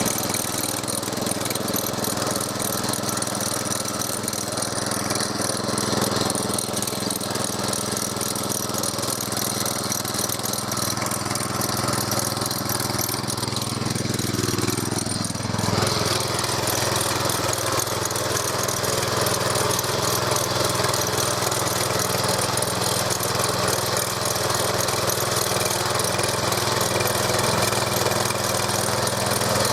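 Walk-behind tractor's single-cylinder Champion 200 cc (6.5 hp) petrol engine running under load while its cultivator tines till virgin ground. About halfway through, the engine note sags as it labours, then picks back up.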